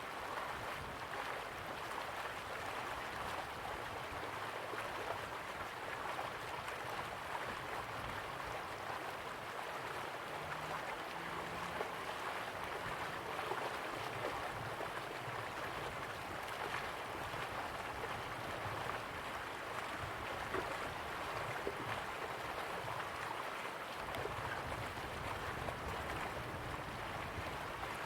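Slow-flowing river water running steadily, a continuous rushing and gurgling.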